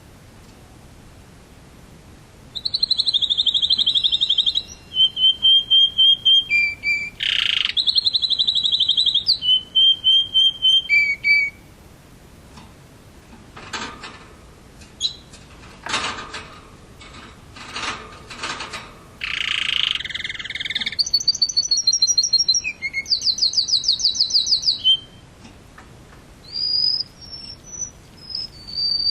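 Canary singing in bursts of fast, high trills and clear single notes, with a stretch of harsher, scratchy calls in the middle.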